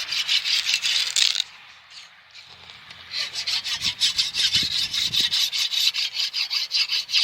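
A sickle shearing through bunches of berseem clover stalks in quick, even rasping strokes. The strokes pause for a second or two about 1.5 s in, then resume.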